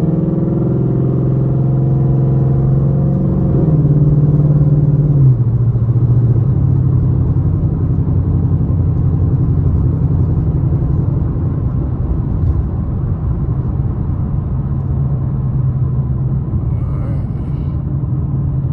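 Ford Mustang GT's V8 engine heard from inside the cabin while driving, a steady engine note with road noise underneath. About five seconds in the pitch drops, and it runs on steadily at a lower note.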